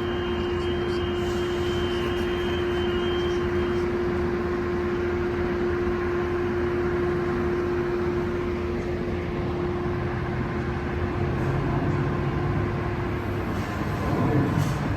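Metrolink commuter train departing the station: a steady mechanical drone with one held hum, high door-closing beeps for the first few seconds, and a deeper engine note joining about two-thirds of the way through as the train pulls away.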